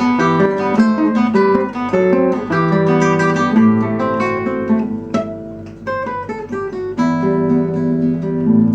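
Acoustic guitar playing an instrumental break between sung verses, strummed and picked; about five seconds in it thins to a few single plucked notes, then fuller strumming returns near seven seconds.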